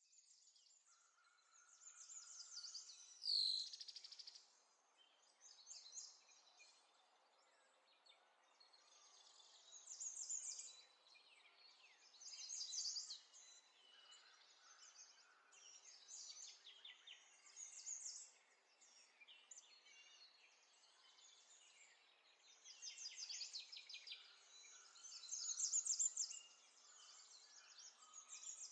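Faint birdsong: bursts of high chirps and rapid trills every couple of seconds, with one sharp downward-sweeping call about three seconds in.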